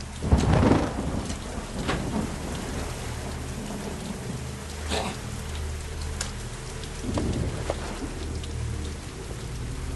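Heavy rain falling steadily, with a rumble of thunder that swells about half a second in and is the loudest sound, and a few short sharp cracks later on.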